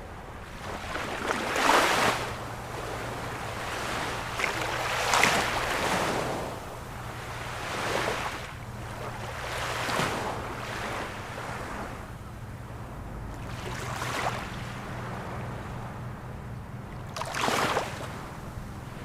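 Ocean waves breaking and washing up on the shore, a surge every few seconds with the largest about two seconds in and near the end. A faint steady low hum runs underneath.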